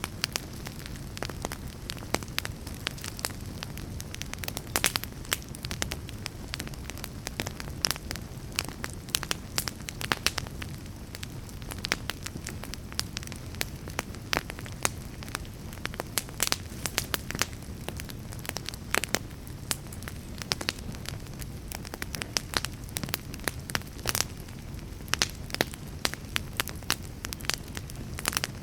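Fire crackling: a steady low rumble with frequent irregular sharp pops and snaps.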